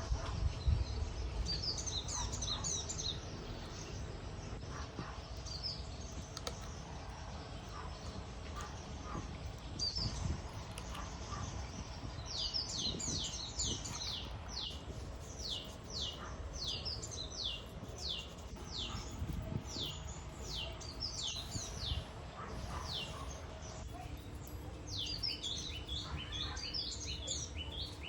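Small birds chirping: a few scattered calls, then long runs of quick, repeated downward-sweeping chirps in the second half, over a steady low rumble of background noise.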